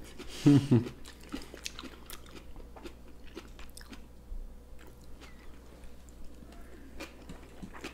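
Close-miked chewing and biting of sushi rolls: soft, wet mouth clicks and smacks scattered throughout. A short voice-like sound comes about half a second in.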